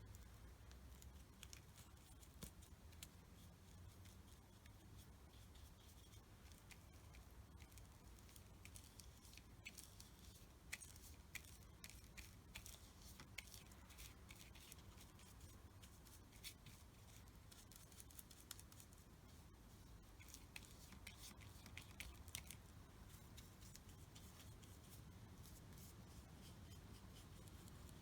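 Near silence with a low hum and faint, scattered scratchy ticks of an art tool working on paper, most of them in the middle stretch.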